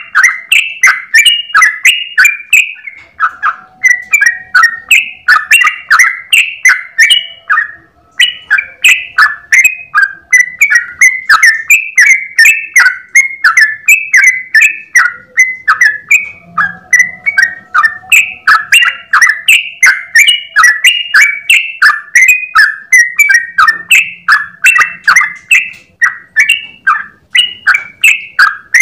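Yellow-vented bulbul (trucukan) singing a long, rapid, unbroken run of short bubbly whistled notes, about three or four a second, in the continuous 'ropel' style used to tutor other birds.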